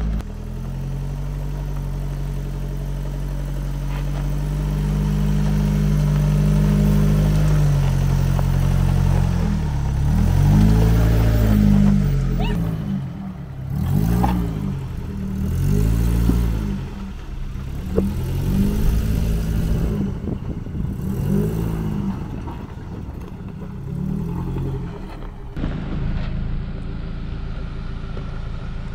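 A 1986 Suzuki Samurai's engine crawling over rock ledges. It holds a steady pull at first, then revs up and drops back in repeated throttle blips, with an occasional knock or clatter. Near the end it gives way to a steadier, more even engine sound as a Jeep Gladiator comes down the trail.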